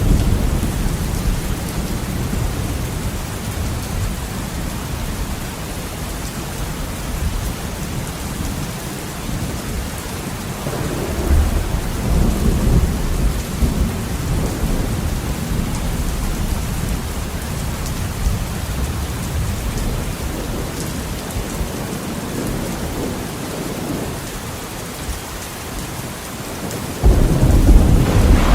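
Heavy rain falling steadily, with rolling thunder. A rumble swells about eleven seconds in, and a louder thunderclap breaks suddenly near the end.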